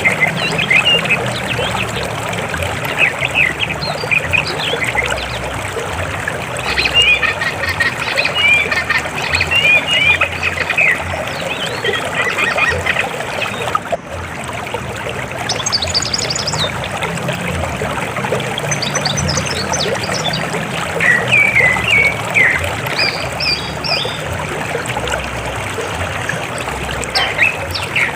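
River water flowing with a steady rush, overlaid by many short chirping calls from wild birds. The calls come thickest in the first half and again about three-quarters of the way through.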